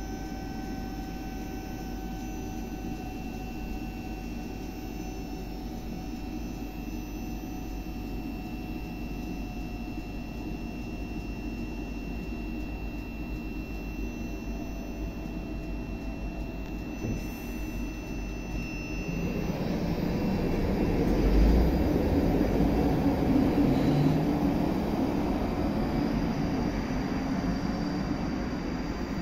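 ScotRail Class 334 electric multiple-unit trains: a steady rumble with a faint motor whine slowly falling in pitch as a train pulls away. About two-thirds in, another train approaches and runs in, and the rumble of its wheels and motors grows much louder.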